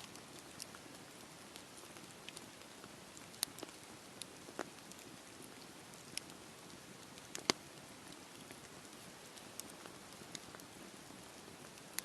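Wood fire burning in a fireplace: a steady soft hiss with irregular crackles and sharp pops, the loudest about three and a half and seven and a half seconds in.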